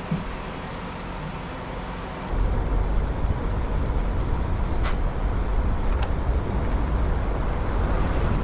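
Semi truck's diesel engine idling with a steady hum. About two seconds in, the sound cuts abruptly to a louder, steady low rumble with a few faint clicks.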